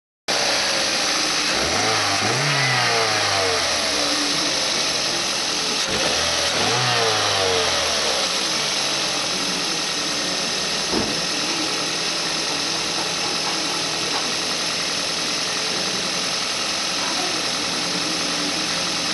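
Toyota Yaris 1.3-litre 2NZ-FE four-cylinder petrol engine running: revved twice in short throttle blips, about two and six seconds in, then idling steadily.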